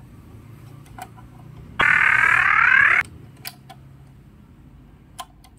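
Toy ambulance's battery-powered electronic siren sounding once for about a second, a falling electronic tone, with light clicks of the plastic toy being handled.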